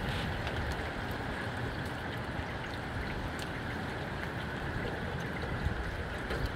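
Steady rain falling, with scattered drops ticking on nearby surfaces and gusty wind rising and falling low underneath.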